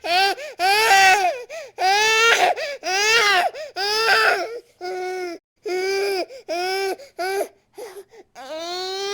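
A baby crying in a string of wails, each about half a second to a second long with short breaths between them. The wails are loud at first, then grow quieter and shorter from about halfway, with a few brief whimpers near the end.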